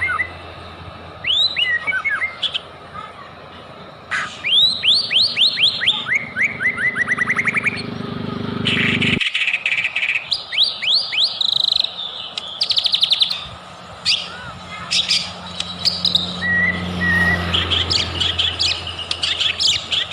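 White-rumped shama (murai batu) singing a loud, fast, varied song of whistled sweeps and quick runs of repeated notes. A low background hum cuts out abruptly about nine seconds in.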